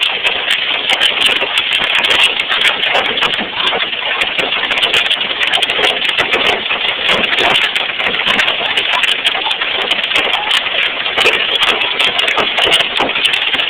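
Heavy hail pelting down, a loud, dense, continuous clatter of countless rapid impacts.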